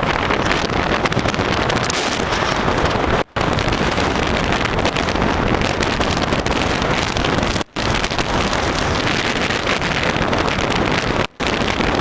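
Strong wind blasting across the microphone in a sandstorm, a loud, continuous rush that cuts out briefly three times.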